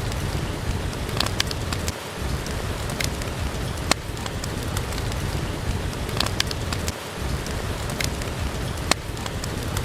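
Steady rain with a wood fire crackling over it, sharp pops coming every second or two.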